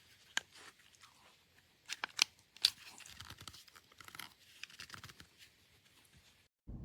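A few sharp clicks with light rustling handling noise between them. Near the end the sound cuts off suddenly and a steady low hum starts.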